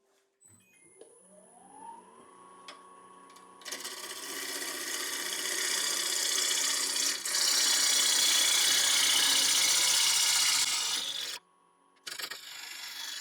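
Wood lathe motor whining up in pitch as it speeds up and then holding steady. From about four seconds in, a bowl gouge cuts into the spinning sycamore blank, giving a loud, continuous cutting hiss while the blank is roughed down to round. The cut stops abruptly near the end.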